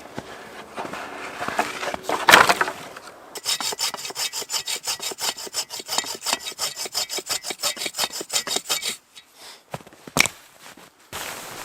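Rapid, even rasping strokes, about six a second for some five seconds, after a louder scrape about two seconds in; a single sharp click follows near the end.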